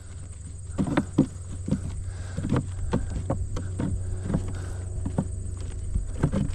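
Wooden honey-super frames and boxes being handled, knocking and clicking against each other in a loose run of light knocks, about two a second, over a steady low hum.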